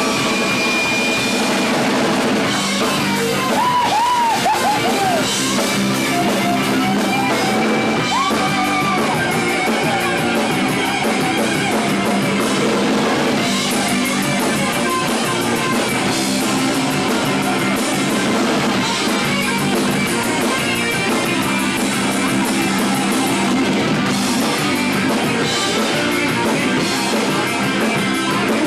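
Live rock band playing: electric guitar over drums and bass, with the guitar bending notes up and down a few seconds in and again about eight seconds in.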